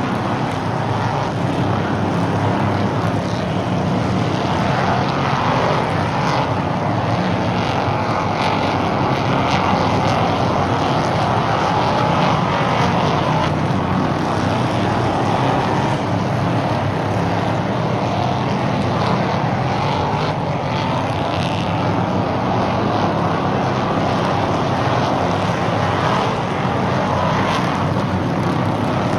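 Stock race cars' engines running at racing speed around an oval track, a steady continuous engine noise.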